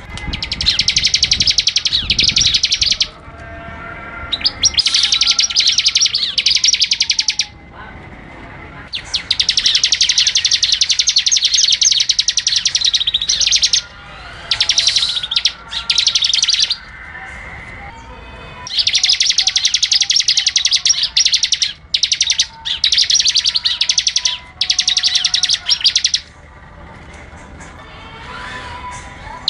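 Bar-winged prinia (ciblek) singing vigorously: long runs of rapid, high, chattering notes lasting a few seconds each, broken by short pauses. Fainter, lower bird calls can be heard in the gaps.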